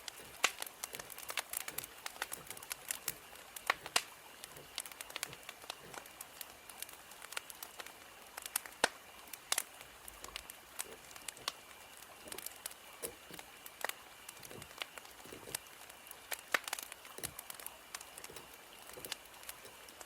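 Wood fire crackling: irregular sharp pops and snaps of burning firewood over a soft steady hiss, with a faint steady high tone underneath.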